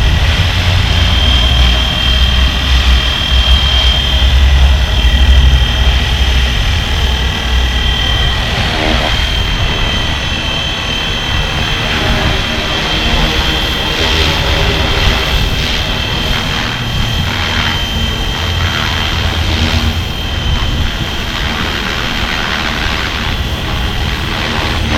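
Flywing FW450 V3 electric RC helicopter in flight: a steady high whine from its motor and rotor, holding nearly one pitch, over a low rumble.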